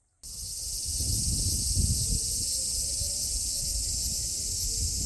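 Min-min cicadas (Hyalessa maculaticollis) singing, a dense steady high-pitched shrill that cuts in abruptly just after the start, with a low rumble underneath.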